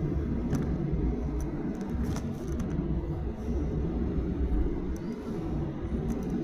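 Cabin noise inside a Boeing 737-800: a continuous low rumble from the engines and airframe, uneven in level, with a few faint light clicks and rattles from the cabin.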